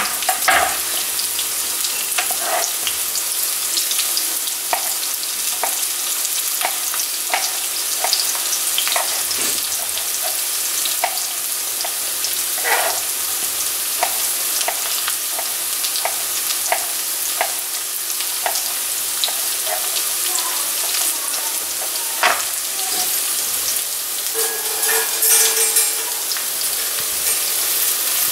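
Sliced onions frying in hot oil in a kadai: a steady sizzle with frequent small pops.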